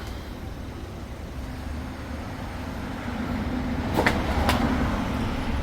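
Steady low hum of running machinery, growing a little louder about three seconds in, with two sharp clicks about half a second apart near the end.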